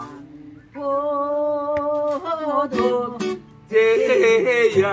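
Acoustic guitar accompanying the singing of a Korean trot (ppongjjak) song. About a second in, a long note is held for a second or so, and near the end the singing comes back in with the next line.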